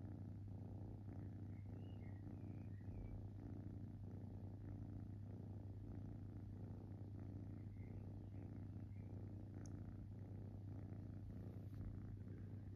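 Kitten purring steadily and evenly.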